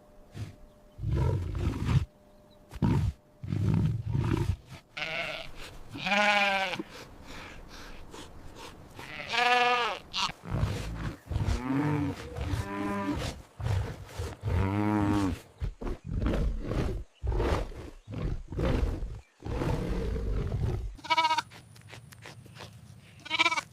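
A series of real animal calls: short low grunts, then several drawn-out, wavering calls that bleat or moo, each a second or so long.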